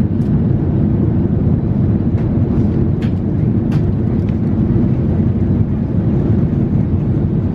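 Steady in-flight cabin noise of an Airbus A350-900: a continuous deep rumble of airflow and engines, with a couple of faint clicks about three seconds in.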